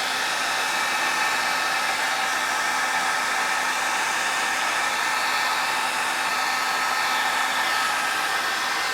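Handheld hair dryer running steadily on the lower of its two settings: an even rush of air with a steady motor whine.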